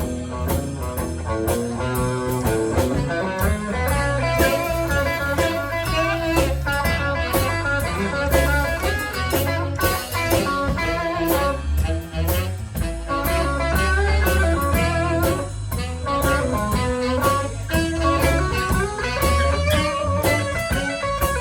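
Live blues band playing an instrumental break in a shuffle, with a lead guitar taking bending, wavering notes over bass and drums.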